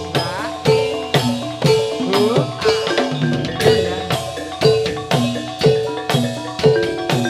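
Javanese gamelan accompaniment for a jathilan dance: struck bronze metallophones and drums play a steady beat of about two strokes a second, with sustained ringing notes between the strokes.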